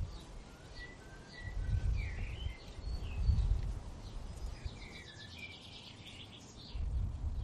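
Birds chirping and whistling in short notes, with a quick trill about five seconds in. Low rumbling noise swells up several times and is louder than the birds.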